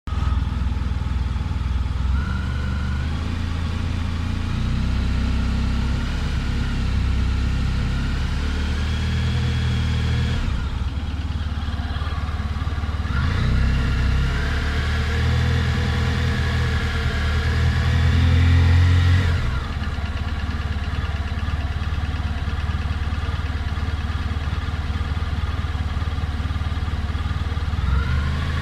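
Honda Crosstourer's 1237 cc V4 engine running at idle, its revs raised briefly a couple of times and held higher for several seconds in the middle before falling back to idle. The owner complains of a knocking noise from this engine at only 1000 km.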